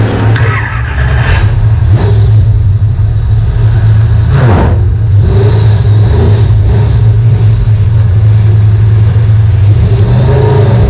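Race car engine running hard at speed on track as a steady, loud drone, with a brief rushing sweep about four and a half seconds in.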